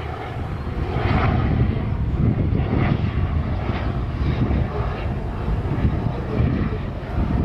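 Airbus H135 twin-engine helicopter running, its engine and rotor noise growing louder about a second in and staying up.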